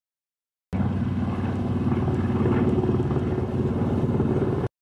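Steady engine running, cut in abruptly and cut off about four seconds later.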